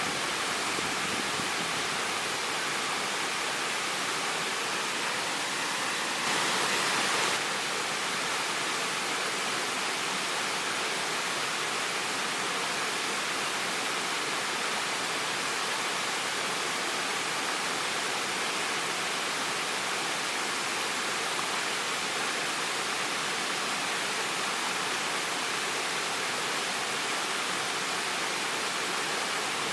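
Waterfall rushing steadily: water falling and splashing as an even hiss. It grows briefly louder and brighter for about a second, roughly six seconds in.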